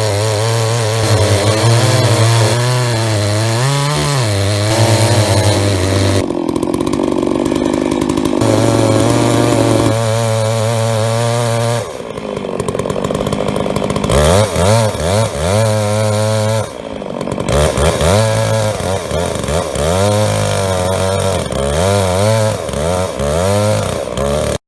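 Chainsaw running at full throttle in a chainsaw mill, ripping through a hard sycamore log lengthways. Its engine note wavers and swings up and down under the load of the cut, with a few abrupt changes along the way.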